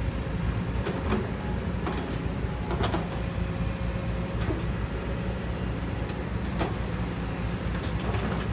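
Kobelco crawler excavator's diesel engine running steadily, with a few sharp knocks from the machine over it.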